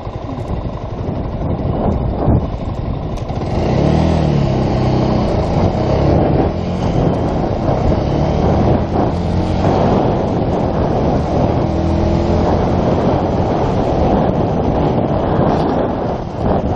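Yamaha YZF-R125's 125 cc single-cylinder engine revving and accelerating, its pitch climbing and dropping back several times, over steady road and wind noise.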